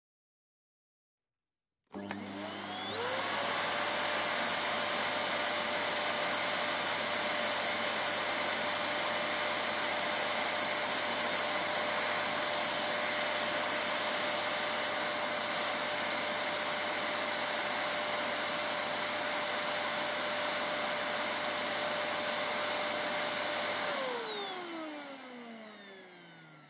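Vacuum cleaner switched on, its motor whine rising quickly to speed, running steadily with a high whine over a rush of air, then switched off near the end, the whine falling as the motor spins down.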